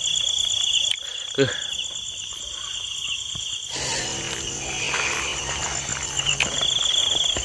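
Night insects, crickets, trilling steadily in high pulsing tones, with a brief knock about a second in. A rustling, scraping noise sets in about halfway through.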